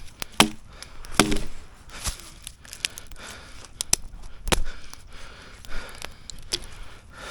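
Firewood being broken and chopped: a string of irregular sharp wooden cracks and knocks, the loudest near the start and about four and a half seconds in.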